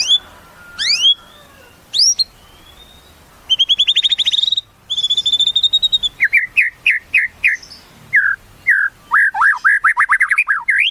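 White-rumped shama singing a varied song. It opens with a few quick rising whistles, then a fast rattling trill and a held high note near the middle, and ends with a rapid run of down-slurred notes.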